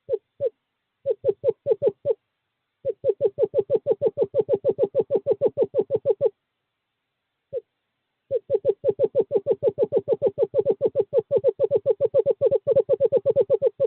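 Male screech owl giving its monotone trill: rapid, evenly spaced hoots on one steady pitch, about eight a second, in runs broken by short pauses, with a longer trill in the middle and another starting about eight seconds in. This is a courtship call to a female.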